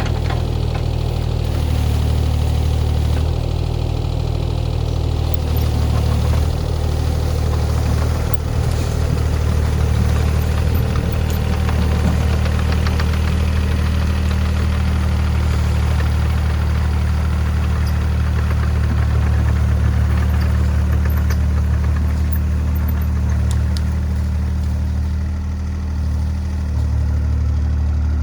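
Diesel engine of a compact construction machine running steadily, a constant low drone with no change in speed.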